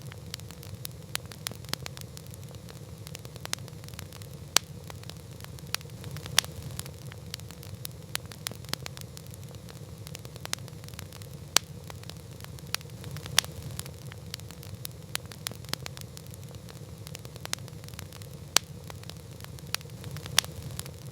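Wood campfire burning: a steady low rush of flames with constant small crackles and a sharp louder pop every few seconds.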